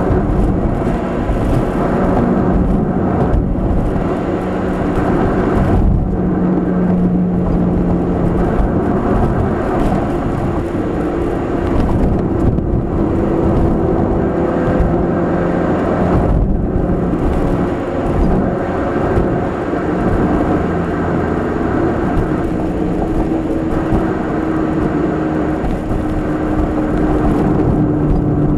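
Nissan March (Micra) K12 12SR's 1.2-litre four-cylinder engine and Kakimoto aftermarket exhaust (NCP360 centre pipe, GTbox 02 edi. rear muffler) droning steadily while cruising, heard inside the cabin over road and tyre rumble. The engine note holds fairly even, its pitch drifting slowly up and down with speed.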